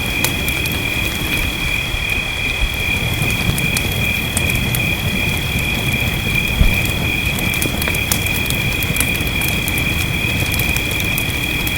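Fireplace crackling with scattered sharp pops over a steady rain hiss and low rumble, with one heavier knock about halfway through. A continuous high-pitched drone at two steady pitches runs over it all, like a night chorus of insects or frogs.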